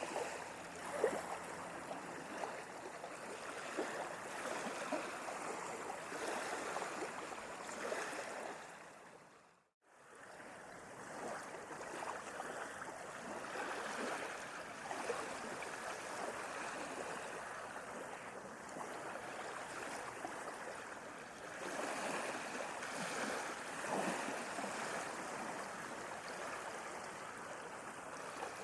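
Sea water lapping and splashing in small waves, a continuous wash of sound. About ten seconds in it fades briefly to silence and then swells back up.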